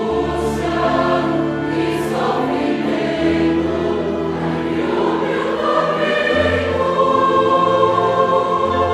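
Choir singing slow, held chords of religious music over a low sustained bass line.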